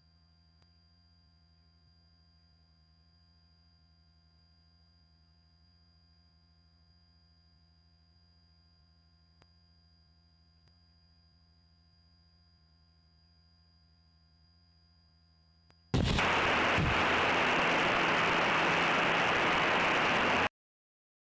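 Faint steady electrical hum from a cockpit intercom feed; about sixteen seconds in, a loud, even rushing noise cuts in suddenly and stops just as suddenly some four seconds later.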